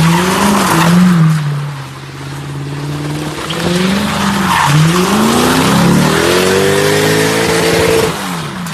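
Lexus IS F's 5.0-litre V8 revving, its pitch rising and falling over several pulls, easing off about two seconds in, then climbing in one long pull that cuts off near the end.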